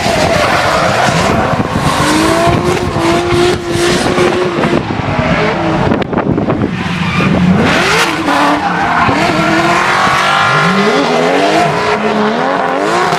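Drift car engine revving hard, its pitch climbing and dropping again several times, with tyres squealing as the car slides.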